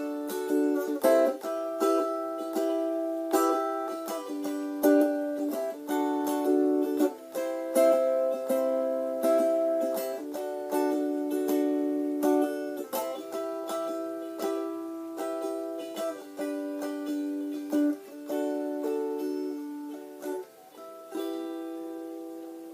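Chords strummed in a steady rhythm on an acoustic string instrument, played without singing; the playing grows quieter toward the end, where the last chord is left ringing.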